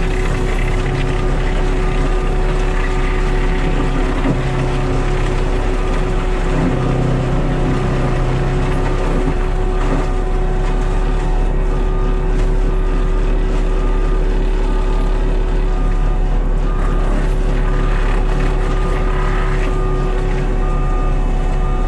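Cat skid steer running steadily at working throttle, its engine and mulcher head driving the tree mulching. In the second half a short beep repeats about once a second.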